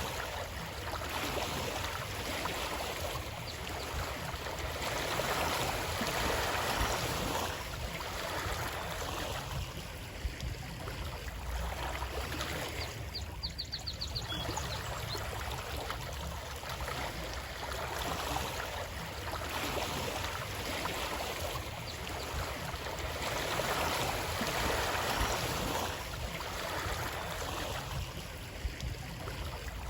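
Running water rushing steadily, its level swelling and easing every few seconds. A brief run of faint high clicks comes about thirteen seconds in.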